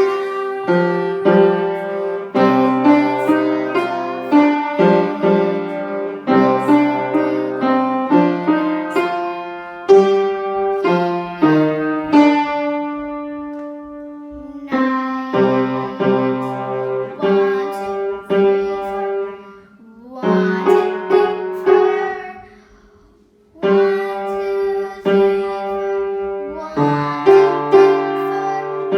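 Solo piano playing a slow piece, its notes struck and left to ring. About two thirds through, the sound dies away to a brief silence before the playing starts again.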